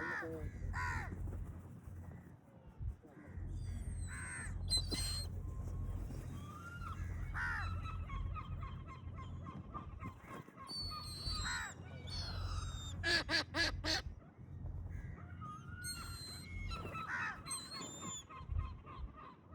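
Gulls and crows calling over one another: gulls' rising and falling cries mixed with crows' caws, with a quick run of about five calls about two-thirds of the way in. A steady low rumble sits underneath.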